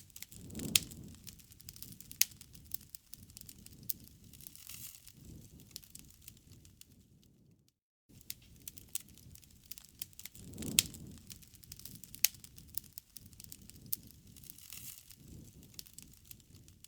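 Campfire crackling, with scattered sharp pops and snaps of burning wood over a low hiss. The sound cuts out for a moment about eight seconds in, then the same stretch of crackling starts over.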